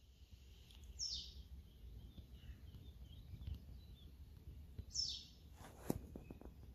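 Birds calling by the water: two short calls that sweep downward in pitch, about four seconds apart, with faint chirps between them, over a low steady rumble. A sharp click comes near the end.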